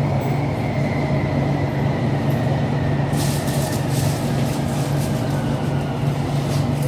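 BTS Skytrain electric train heard from inside the car: a steady low running hum with a faint motor whine slowly falling in pitch as the train slows into a station. From about three seconds in, a light rattling of clicks joins it.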